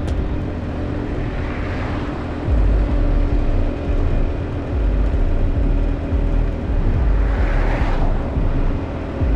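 Motorbike on the move: a steady engine drone under heavy wind rumble on the microphone. Two swells of rushing noise rise and fade, about two seconds in and again near the end, like other vehicles passing.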